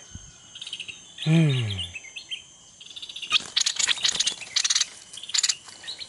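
Small birds chirping, with a short falling grunt from a man's voice about a second in. About three seconds in comes a run of quick, sharp high clicks and chirps that lasts two seconds or so.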